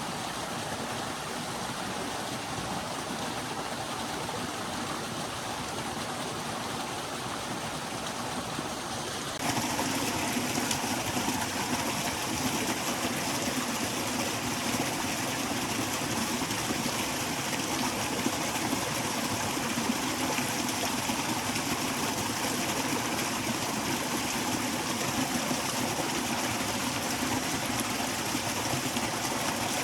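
A forest stream running steadily. About a third of the way in it jumps suddenly to a louder, hissier rush, then holds steady.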